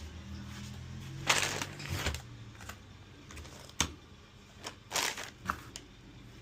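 Handling noises during a repair: a few short scraping or rustling bursts and one sharp click, over a low hum that fades out about two seconds in.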